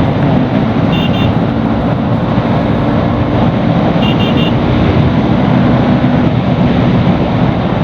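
Bajaj Pulsar NS200's single-cylinder engine running at riding speed, mixed with steady wind and road noise. Short high beeps sound twice, about a second in and again about four seconds in.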